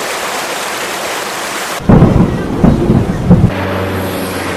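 Heavy rain hissing steadily, then about two seconds in a loud crack of thunder that rumbles for about a second and a half. A steady low hum follows the thunder.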